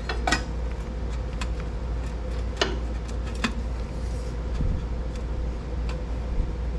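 Occasional light metallic clicks and knocks of steel exhaust pipe bends being handled and held up against a truck frame for test fitting, over a steady low hum.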